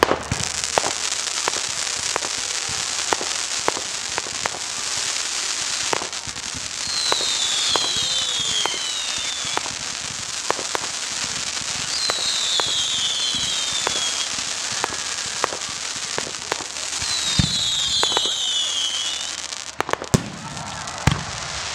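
Fireworks display: a continuous crackling hiss with many sharp pops and bangs, a couple of heavier booms near the end, and three high whistles that fall in pitch.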